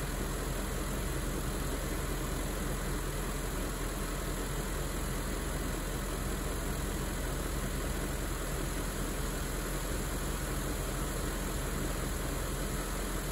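BMW E38 740i's 4.4-litre V8 idling steadily while warming up after a cold start.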